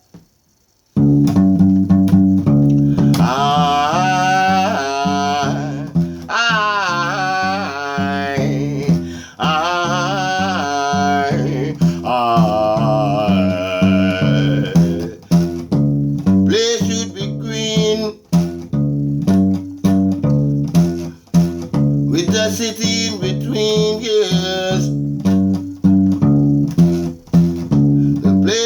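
A one-string acoustic guitar played in a steady, repeating low pattern, starting about a second in, with a man's wordless singing over it in long wavering phrases.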